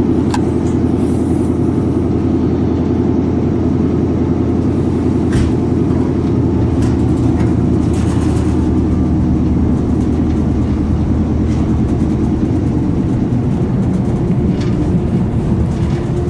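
Train running on the rails, a steady loud rumble and hum with a few faint clicks, heard from on board. A slowly rising whine sets in near the end.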